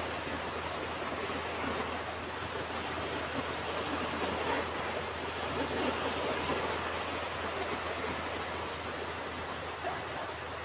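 Ocean waves washing onto a beach: a continuous surf wash with no single crash standing out, swelling slightly midway.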